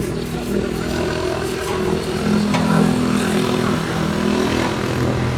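A motor running with a steady hum, its pitch dropping lower about four and a half seconds in.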